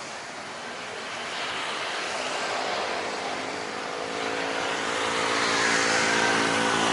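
Jet airliner's engines on landing approach, growing steadily louder as it comes closer. The engines' steady hum and a high whine come through in the second half.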